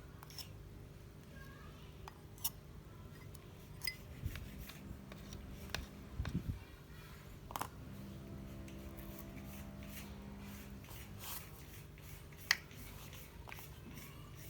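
Scattered sharp clicks and light knocks of small hard parts being handled on a workbench, with a faint steady hum for a few seconds in the middle.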